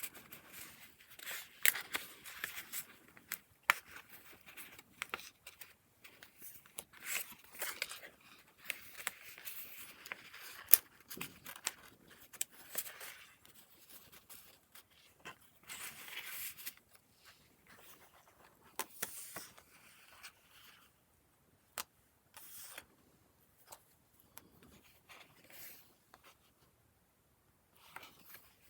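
Pages of a handmade paper junk journal being turned and handled: irregular rustling and scraping of paper with sharp clicks and taps, thinning out to a few faint sounds near the end.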